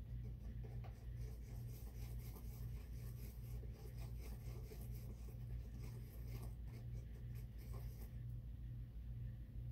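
Quick scratchy strokes of a paintbrush mixing white and red paint into pink on a palette, stopping about eight seconds in, over a low steady hum.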